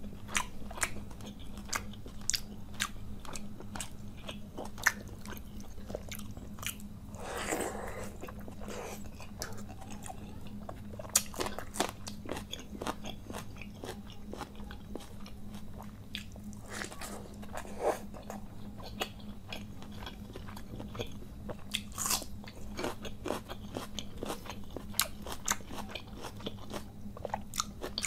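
A person chewing mouthfuls of panta bhat (watery fermented rice) and its sides close to the microphone: a steady run of sharp crunches and wet mouth clicks, over a constant low hum.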